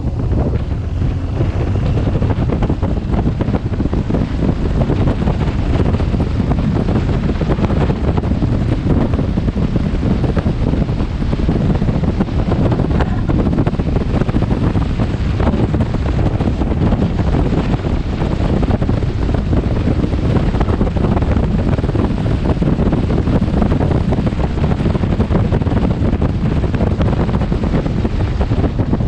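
Steady, loud wind noise buffeting a helmet-mounted camera's microphone on a moving motorcycle.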